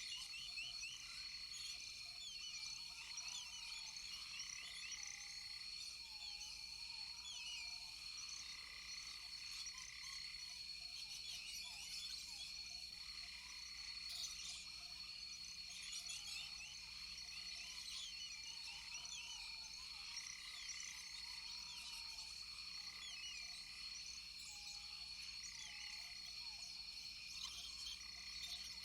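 Rainforest frog chorus: many overlapping quick chirps over a steady high-pitched ringing tone, with short arching calls lower down now and then.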